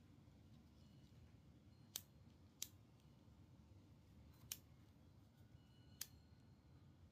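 Near silence broken by four short, sharp clicks: two about two and two and a half seconds in, then one at about four and a half and one at about six seconds.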